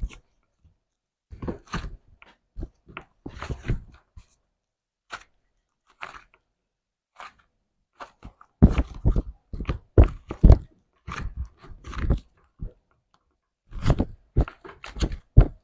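Slime being squeezed and worked by hand, with irregular clusters of short sticky crackles and pops. It is busier and louder in the second half.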